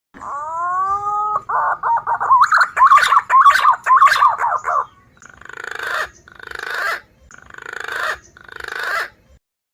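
Green pigeon (punai) song played as a bird-trapping lure call. A rising whistle opens it, then comes a run of fast warbling whistled notes, then four swelling, rattling notes about a second apart.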